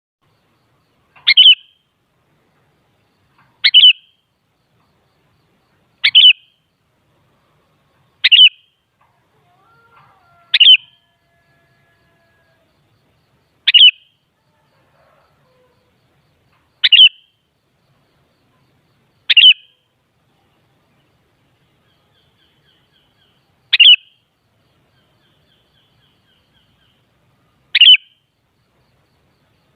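Sooty-headed bulbul (kutilang) giving short, high calls, ten in all, each a brief note spaced two to four seconds apart.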